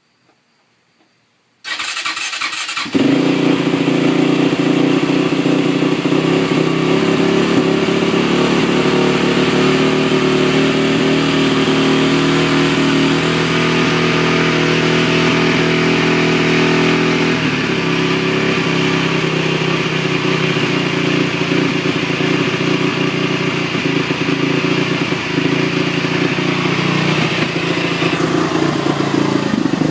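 Honda TRX450ER's single-cylinder four-stroke engine being started, catching after about a second of cranking, then running steadily at idle, with a change in its note partway through. The owner describes the idle as rough and running high even with the choke off.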